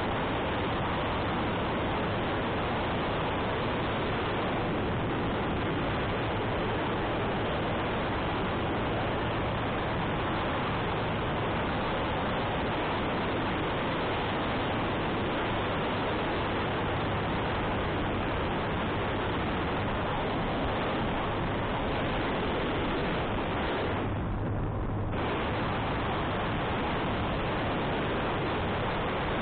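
Steady wind noise buffeting the microphone of a moving motorcycle, with the motorcycle engine's low, even hum underneath. About 24 seconds in, the wind noise drops away for about a second while the engine hum carries on.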